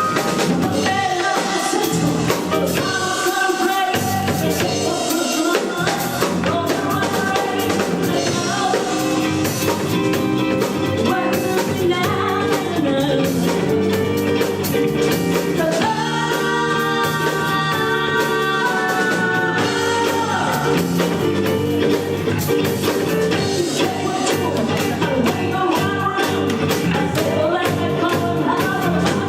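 Band playing a rock song, with singing over drums and other instruments.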